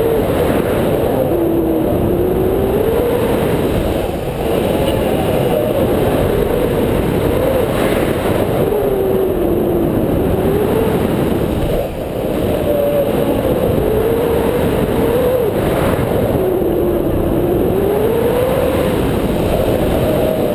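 Wind rushing over the microphone in flight during paragliding, with a tone that slowly rises and falls in pitch.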